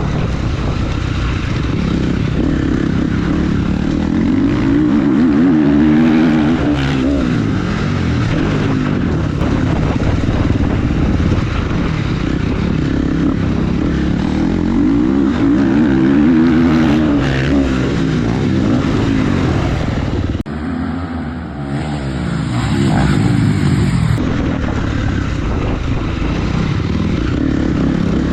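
Motocross motorcycle engine running under riding, its revs climbing and falling again and again as the rider accelerates and backs off. The level dips briefly about two-thirds of the way through.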